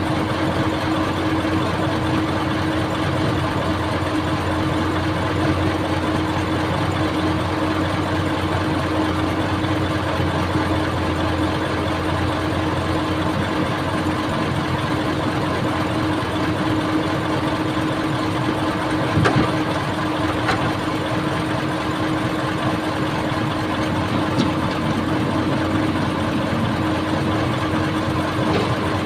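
Old excavator's diesel engine running steadily with an even hum, with a brief sharp knock about 19 seconds in and another about 24 seconds in.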